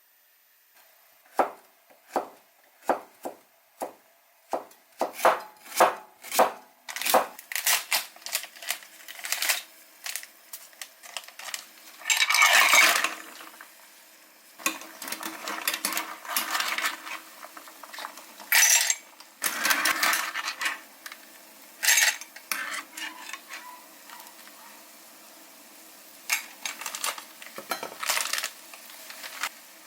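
Kitchen clatter of dishes and utensils: a run of sharp clinks, about one or two a second, followed by irregular clattering and rattling with a longer noisy stretch partway through.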